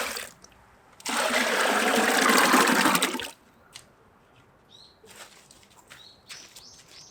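Water being poured in two gushes, a brief one and then a steady splashing pour of about two seconds that stops abruptly. Faint bird chirps follow.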